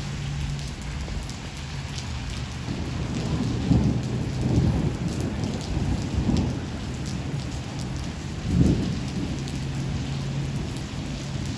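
Steady heavy rain falling, with low rolling thunder rumbling under it. The thunder swells loudest about four seconds in and again near the nine-second mark.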